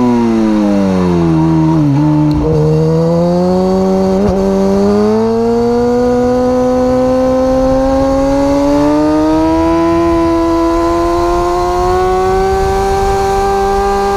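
A superbike's engine, heard from on board. The revs fall for about two seconds as it slows, shift twice, then climb steadily as it accelerates.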